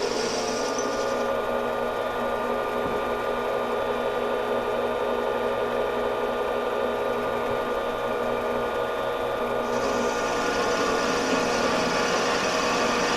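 Metal lathe running steadily while facing the end of a front axle spacer, its motor and gearing holding several steady tones. A higher hiss of the cut drops away about a second in and comes back near the end.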